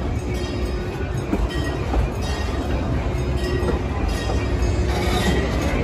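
A theme-park passenger train rolling along its track, heard from on board: a steady low rumble with occasional wheel clicks and a faint steady whine.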